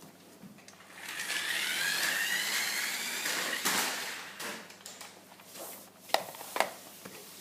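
RC rally car's motor whining and rising in pitch as the car speeds up, then fading away. A couple of sharp knocks follow near the end.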